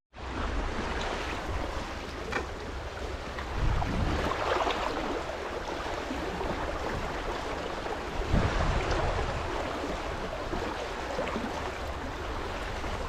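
Fast river current rushing steadily, with wind buffeting the microphone in low gusts about four and eight seconds in.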